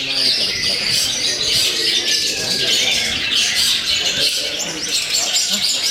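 Several caged songbirds singing at once, a dense, continuous mix of chirps and whistles, with human voices faintly underneath.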